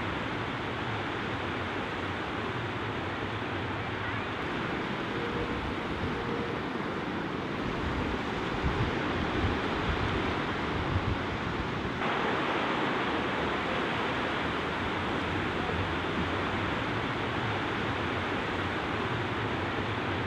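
Ocean surf washing on a rocky beach, a steady rush with wind on the microphone; it gets a little louder about twelve seconds in.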